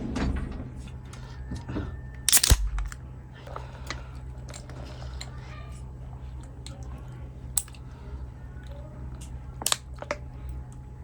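A few sharp knocks and clicks over a steady low hum, the loudest a short cluster about two and a half seconds in, with two more single clicks later.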